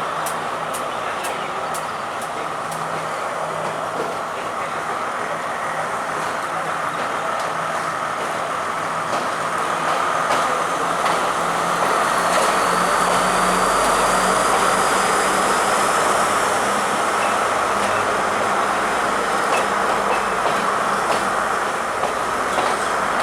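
Diesel train running through a railway station with a steady rumble and a low engine hum. Wheels click over rail joints at an even rhythm in the first few seconds, and a faint high wheel squeal comes and goes midway.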